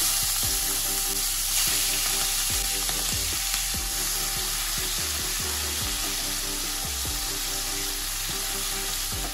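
Prawns rubbed with salt and turmeric sizzling steadily as they fry in hot mustard oil in a nonstick wok, stirred with a wooden spatula.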